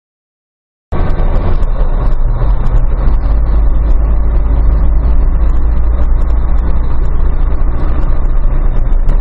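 Loud, steady vehicle rumble of engine and road noise. It cuts in abruptly about a second in, after total silence.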